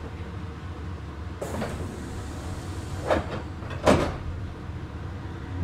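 Inside a Meitetsu 6800 series electric train car: a steady low hum with three sharp clunks, one about a second and a half in and two more close together around three and four seconds in, the last the loudest.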